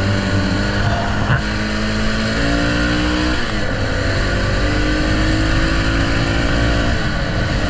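Honda XR650L's single-cylinder engine pulling hard under acceleration, its pitch rising and dropping at an upshift about three seconds in and again near the end, under steady wind rush on the microphone.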